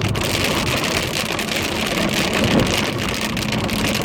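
Heavy rain drumming on a car's roof and windshield, heard from inside the moving car as a dense, steady patter, over the hiss and hum of the car driving on a wet road.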